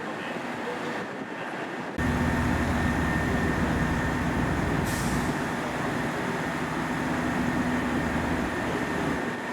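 Diesel engines of a KiHa 189 series diesel railcar running steadily with a low, constant hum, starting abruptly about two seconds in. A short hiss of released air comes about five seconds in.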